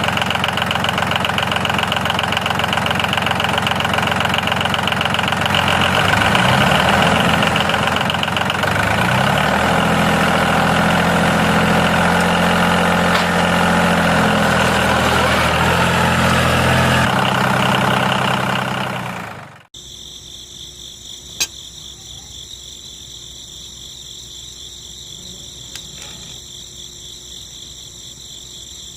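Small electric motor of a homemade toy tractor model running steadily, driving a miniature oil-press mechanism, its pitch shifting a little; it dies away and cuts off about nineteen seconds in. After that, a steady high chirring of insects such as crickets.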